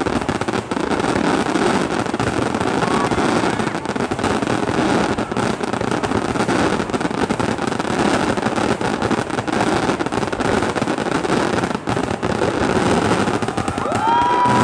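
Aerial firework shells bursting in a rapid, continuous barrage, the bangs running together with crackle. A steady, high whistle starts near the end.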